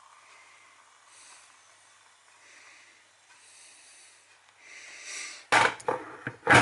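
Soft breathing close to the microphone, then a run of loud knocks and rubbing sounds about five and a half seconds in.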